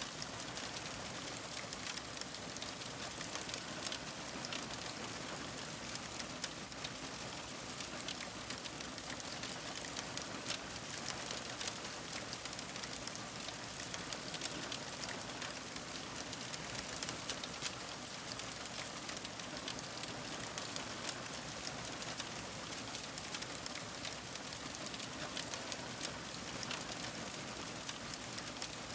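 Fire crackling: a steady, dense run of small snaps and pops over a soft hiss.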